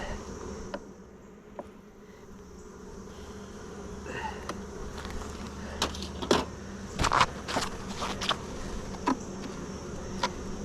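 Honeybees buzzing around an open hive, a steady hum, with a series of sharp clicks and knocks in the second half.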